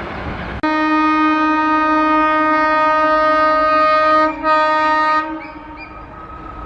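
Indian Railways locomotive horn blowing a long steady blast of nearly four seconds, then a brief break and a second, shorter blast. Rail running noise lies underneath.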